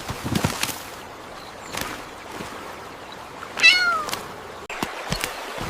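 A cat meows once about three and a half seconds in, a short call that falls slightly in pitch, over scattered soft clicks.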